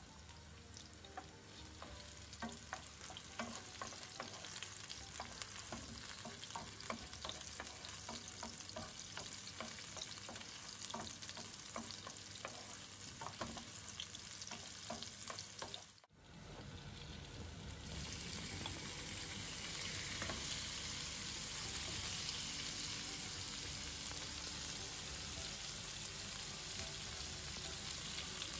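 Onion, ginger and garlic sizzling in oil in a frying pan, with a wooden spoon stirring and many small crackles. About halfway through, the sound cuts briefly, then raw beef strips fry in the pan with a louder, denser, steady sizzle.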